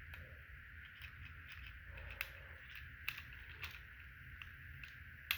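Faint, scattered clicks and taps of a small screwdriver and plastic battery cover as the battery compartment of a toy train locomotive is screwed shut, over a steady low hum.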